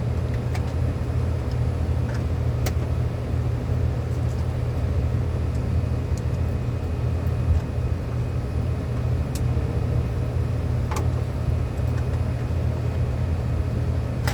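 Steady low machine rumble, with a few faint sharp clicks.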